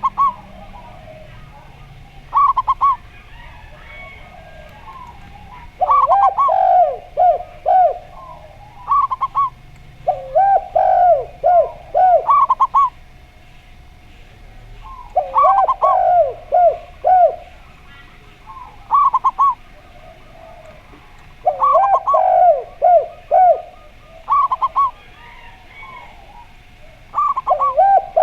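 Zebra doves (perkutut) and a spotted dove (derkuku) cooing. Short high phrases of quick coos alternate with longer phrases that start high and drop into several lower rolling coos, one bout every few seconds. A faint steady hum runs underneath.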